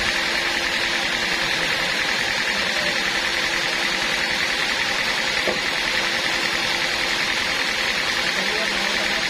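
Band sawmill running with a steady, even machine noise and a constant high hum.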